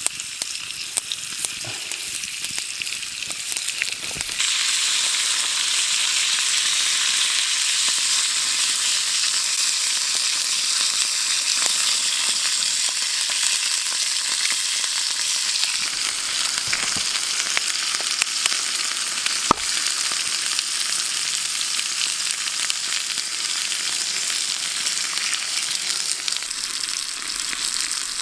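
Strips of meat frying in a pan over a campfire: a steady hissing sizzle with small crackles, louder from about four seconds in.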